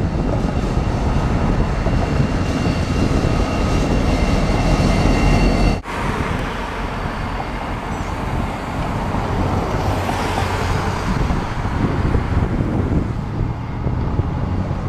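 Steady rumble of a passing train, with faint thin high squealing tones over it in the first half. The sound breaks off abruptly about six seconds in and picks up again as a similar rumble.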